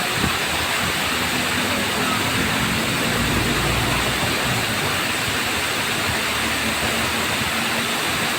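Waterfall rushing steadily, with a low engine hum from a vehicle on the nearby road between about two and four seconds in.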